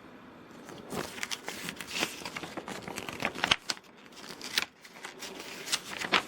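Packaging being handled during an unboxing: irregular crinkling and rustling with sharp clicks and snaps, starting about a second in and going on in uneven bursts.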